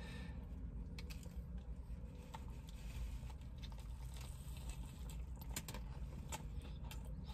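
Faint chewing and crunching of a bite of crispy fried chicken sandwich, with scattered small crisp clicks over a low steady hum.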